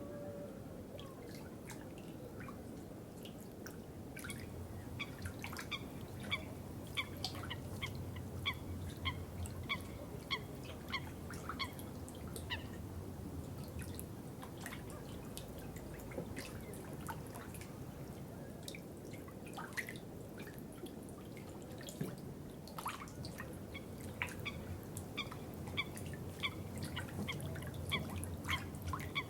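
Water dripping: many small drops plinking, in clusters, over a low steady trickle.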